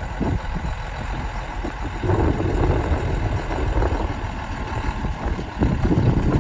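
A 1987 Ford L8000 truck's engine running at idle, getting louder about two seconds in and again near the end.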